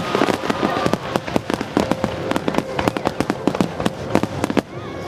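Fireworks bursting, a dense irregular run of many sharp cracks and pops in quick succession.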